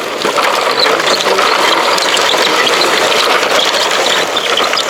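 Plastic ratchet mechanism of a Bruder toy construction vehicle being cranked by hand, giving a fast, continuous clicking.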